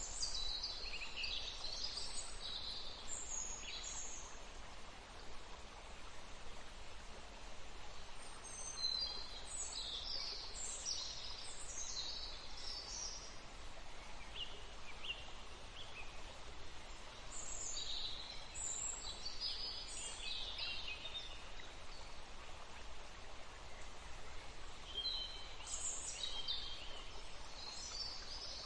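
Songbird calls: clusters of quick, high chirping phrases that come about every eight seconds over a steady outdoor background hiss.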